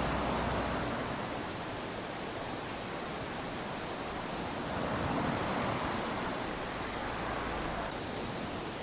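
Small waves washing up onto a sandy beach, the surf swelling and easing off twice, about five seconds apart.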